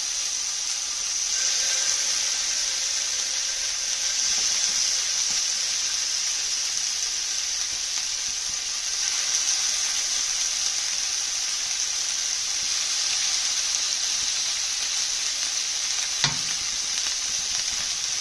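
Marinated chicken skewers sizzling in hot oil on a tawa (flat griddle), a steady frying hiss that swells at times as more skewers are laid down. A single sharp tap near the end.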